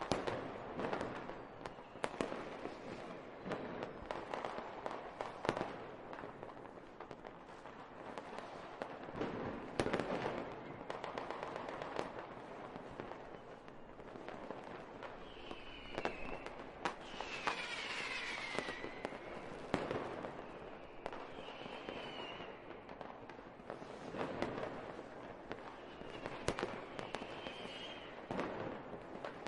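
Fireworks going off: an irregular series of bangs and crackles over a steady rumble, with a few short high whistles in the second half.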